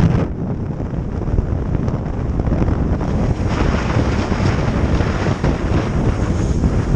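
Wind buffeting the microphone on a motorcycle riding at road speed, a steady low rumble of rushing air with engine and road noise mixed in.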